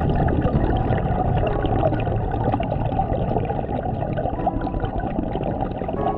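Scuba diver's exhaled bubbles rushing and gurgling past the underwater camera microphone, a dense bubbling that covers the music and stops near the end.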